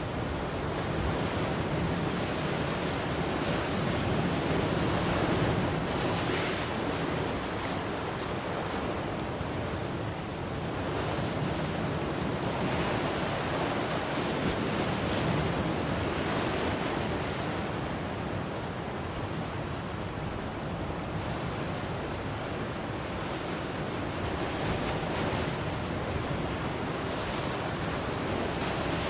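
Ocean waves breaking and washing in a continuous surf, swelling and easing every few seconds, with a few brief brighter hissing washes.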